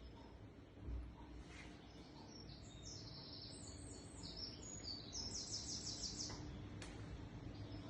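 Songbird singing faintly: several quick phrases of short, high notes. A low steady hum sits underneath, and there is a brief low thump about a second in.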